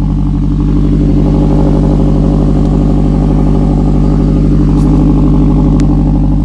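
2016 Scion tC's 2.5-litre four-cylinder engine idling steadily after a cold start, heard through an aftermarket cat-back exhaust with a Borla tail pipe.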